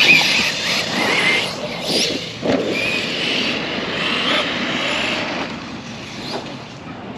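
Electric RC car's brushless motor whining, its pitch rising and falling as the throttle is worked, then fading away after about five seconds.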